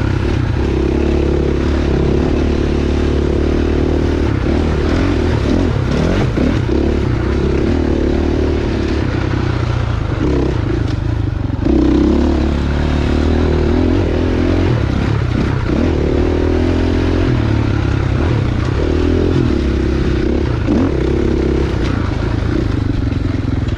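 Single-cylinder dirt bike engine running under changing throttle on a trail, the revs rising and falling with gear changes, with clatter from the bike over rough ground.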